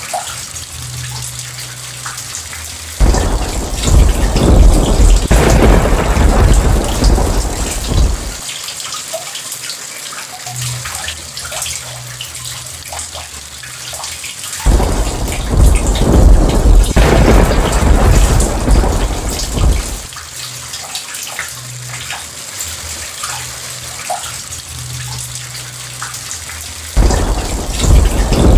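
Steady rain falling, with thunder rumbling three times, each peal starting suddenly and rolling on for about five seconds.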